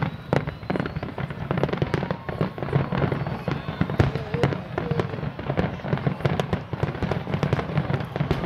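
Fireworks display finale: aerial shells bursting in a dense, continuous barrage of bangs and crackles.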